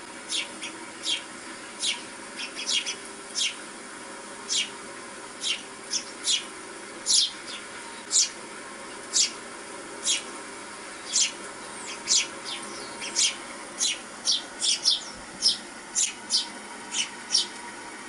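Small songbirds chirping from a bird video played on a television: short, high, falling chirps about once a second, now and then two or three in quick succession, over a steady background hiss.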